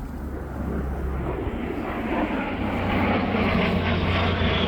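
Low-flying military aircraft passing overhead, the rushing engine noise building louder over about three seconds and then holding.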